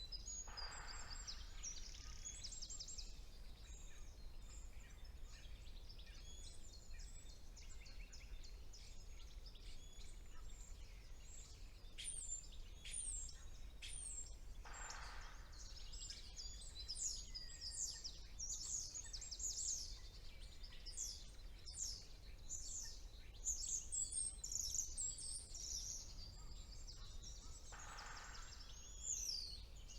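Several songbirds singing together: dense high chirps and trills that grow busier in the second half, over a steady low rumble. Three times, about a second in, around the middle and near the end, a brief lower, noisy sound.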